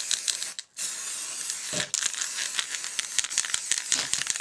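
Aerosol spray paint can rattling briefly as it is shaken, then hissing in two long bursts with a short break between them.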